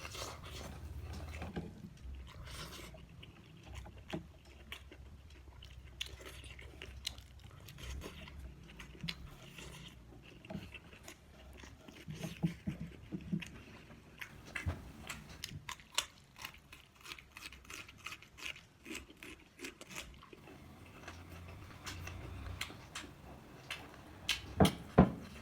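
Close-up chewing and crunching of food, a steady run of short crisp crunches, with a few louder clicks near the end.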